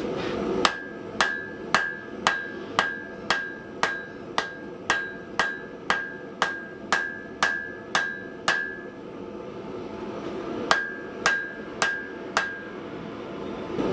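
Hand hammer forging hot steel bar on an anvil: a run of about sixteen blows, two a second, each with a short ring, then a pause and four more blows.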